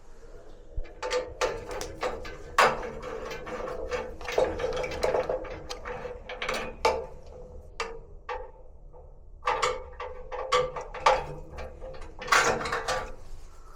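Irregular clicks, knocks and scrapes of tools and metal parts being handled while a Bosch gas water heater is taken apart and cleaned of dust, with a faint metallic ring under them. There is a quieter pause about halfway through.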